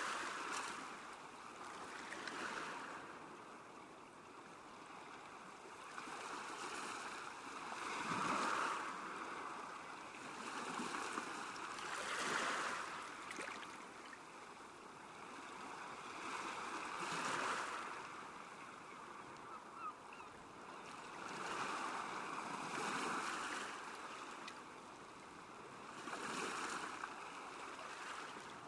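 Small lake waves washing against the shore, each wash swelling and fading every few seconds.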